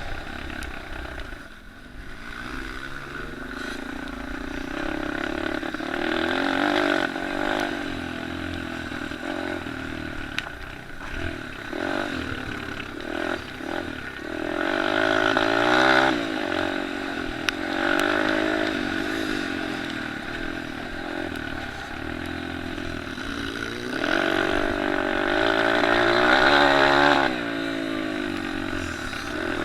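Small pit bikes and kids' motocross bikes racing, their engines revving up and down as they work round the track. The engines swell loudest as bikes pass close about halfway through and again near the end.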